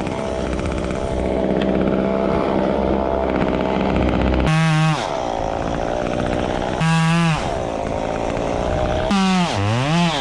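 Small gasoline engine running steadily, with three short throttle revs about two seconds apart; the last rev dips and then rises in pitch.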